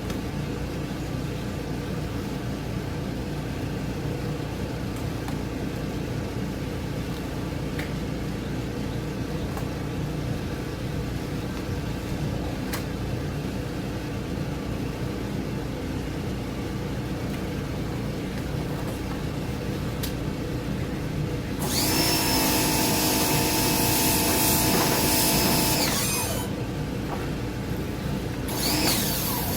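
Electric power tool motor running steadily, then two louder stretches of about four seconds each, the second starting near the end.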